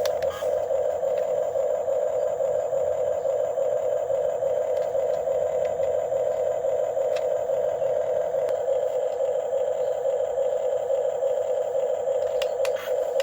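Small electric gear motors of a Huina 1550 RC excavator whirring steadily as it works, dipping briefly near the end.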